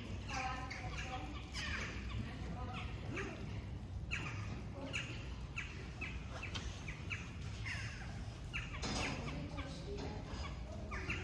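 Small birds chirping and calling in short, quickly repeated notes, over a steady low rumble.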